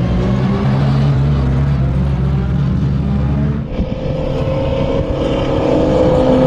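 V8 racing car engine heard on board, running at steady revs, then a brief break about three and a half seconds in, after which the revs climb steadily.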